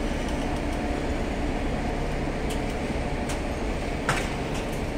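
Double-decker passenger train at the platform giving off a steady mechanical hum, with a single sharp metallic clack about four seconds in.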